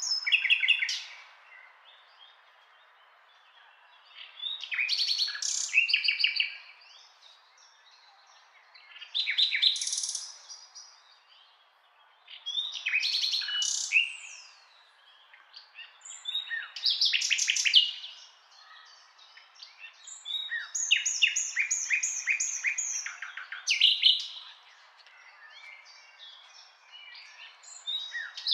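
Songbird singing: short, varied phrases of quick high notes and trills, each a second or two long, repeating every three to four seconds.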